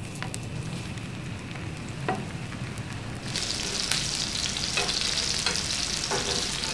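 Long zucchini strips shallow-frying in desi ghee on a flat tava: a sizzle that grows much louder a little over three seconds in as more strips go down, with a few light taps of pieces and a metal spatula on the pan.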